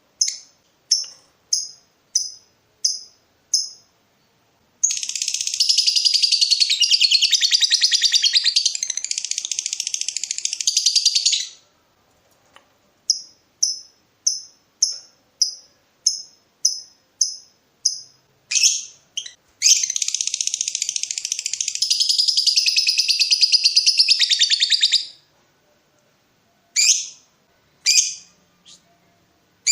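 Lovebird calling: series of short, sharp high chirps about two a second, broken twice by a long, unbroken rapid chattering trill of about six seconds, the long 'ngekek' chatter.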